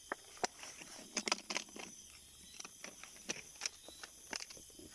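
Irregular sharp crackles and clicks of dry grass and leaves being brushed through, over a steady high-pitched insect chorus.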